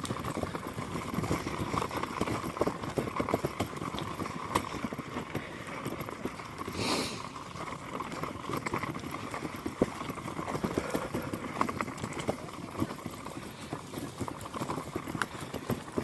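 Footsteps of people walking along a forest trail, a dense run of irregular steps, with a brief hiss about seven seconds in.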